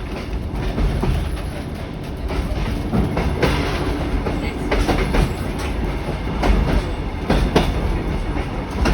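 Narrow-gauge passenger train running along the track: a steady low rumble of the carriage, with irregular clicks and knocks from the wheels on the rails.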